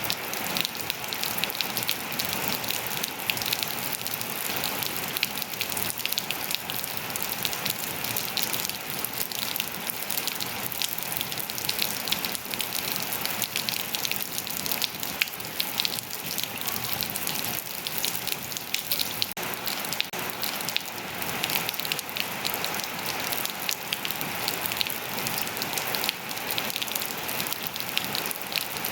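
Steady rain falling on surfaces, a constant hiss with dense, fine pattering of drops.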